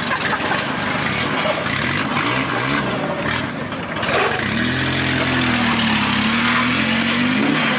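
A car engine running close by, first among the general din of other vehicles, then clearly from about halfway through with a steady note that rises slightly near the end.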